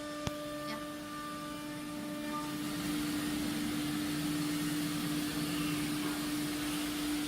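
CNC router machinery running: a steady hum with a hiss that grows louder from about three seconds in, and a single click near the start.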